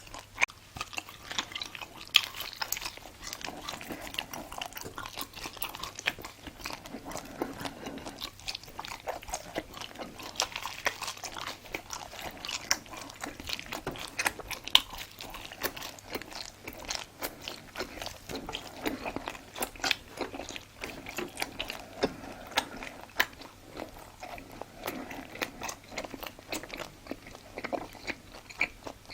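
A person chewing and biting food close to the microphone, with many small sharp clicks and crunches of mouth sounds.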